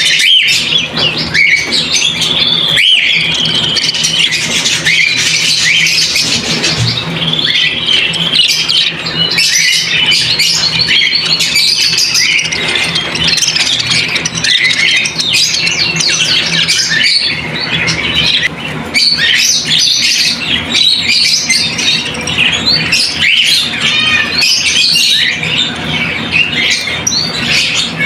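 Many caged birds calling together in a dense, continuous chatter of short high calls, over a low steady hum.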